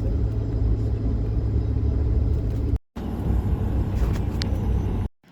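Pulling tractor's engine running with a heavy, low rumble, broken by a sudden cut about three seconds in and then resuming.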